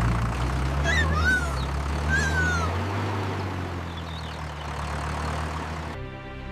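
Tractor engine running with a steady low drone, with two or three short high animal calls that rise and fall about a second in. Music starts near the end.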